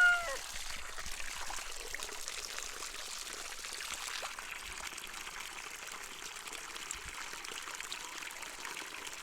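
Water from a garden hose pouring steadily into a poultry water container. A bird's short call fades out at the very start.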